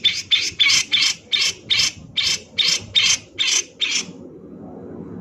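Grey-cheeked bulbul (cucak jenggot) giving a rapid, even series of short, harsh rasping notes, about three a second, that stops about four seconds in.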